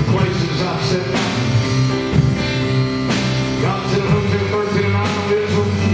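Live church band playing: drum kit, bass guitar and piano, with drum hits about once a second over sustained bass notes.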